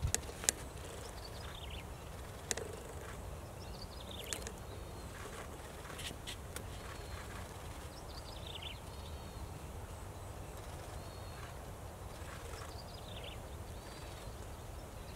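A small wild bird repeating a short, high, falling call every couple of seconds, with some small arched chirps in between, over a steady low rumble. A few sharp clicks stand out in the first seven seconds.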